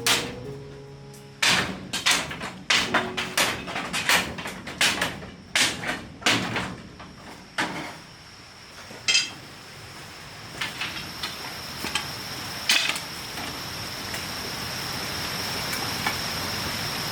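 A fast run of sharp knocks, two to three a second, for about the first seven seconds. Then only scattered light taps, over a steady high-pitched whine that rises in the second half.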